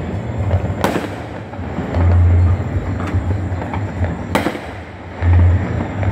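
Many fireworks and firecrackers going off across a city at once: a constant crackle of distant pops with two loud bangs, about a second in and just after four seconds. A low rumble swells and fades twice.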